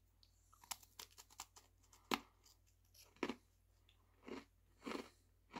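Faint sounds of a person chewing a crunchy Oreo sandwich cookie: a run of small crisp crunches, then several louder chewing sounds about half a second to a second apart.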